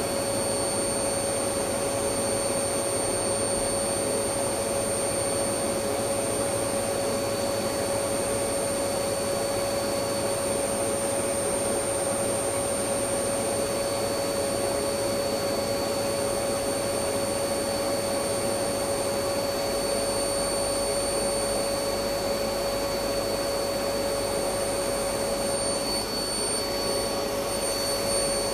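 Electric vacuum cleaner running continuously: a steady whooshing motor noise with a constant hum, unchanging throughout.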